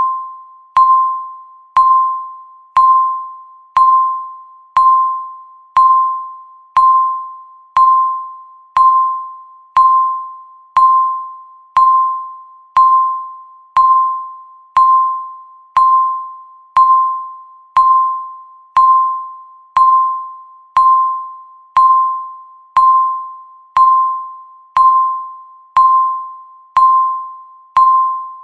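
Countdown timer beeping once a second: a sharp, single-pitched electronic beep that dies away quickly, about 28 in a row, marking each passing second.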